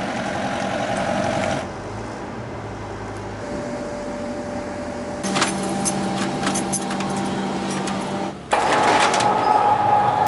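Factory machinery noise in short edited segments: a steady mechanical hum, then a stretch of rattling with many clicks over a steady drone, then a louder stretch.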